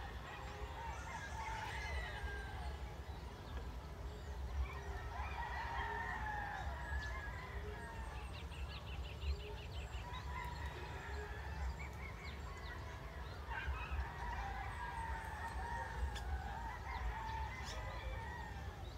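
Several birds calling and chirping over one another, with a quick rattling trill about halfway through, over a steady low rumble.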